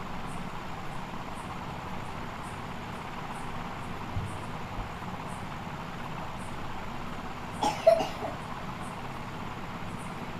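Steady hum and hiss of electric workbench equipment running, with a brief, louder short sound about eight seconds in.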